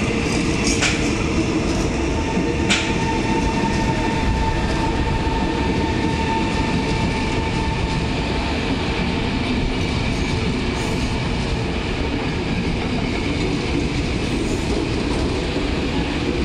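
Electric commuter train (KRL Commuterline multiple unit) rolling past along the platform as it pulls into the station. A steady rumble of wheels on rails, with a few sharp wheel clicks in the first three seconds and a thin steady whine from about two to eight seconds in.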